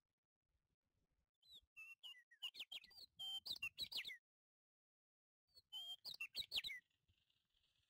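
A small bird chirping in quick runs of short, sweeping high notes, in two bouts with a pause of about a second and a half between them.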